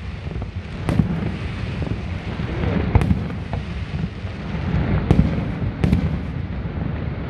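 Aerial fireworks shells bursting: four sharp bangs, about a second in, around three seconds in, and twice near the end, over a steady low rumble.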